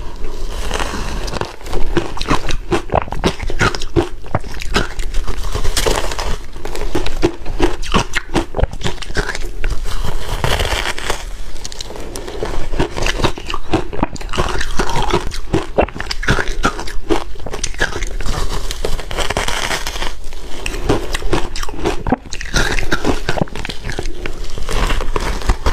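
Ice being bitten and chewed close to the microphone: loud, irregular crunching that continues steadily without pause.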